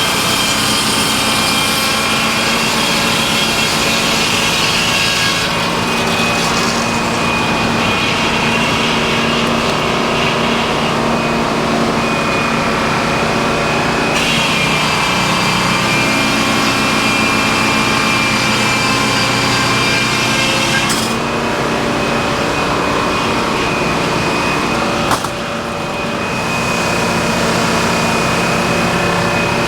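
Sawmill running and cutting through a log: a loud, steady machine drone with a high whine from the saw whose sound shifts several times as the cut goes on. A sharp click about 25 seconds in, with a brief dip in level.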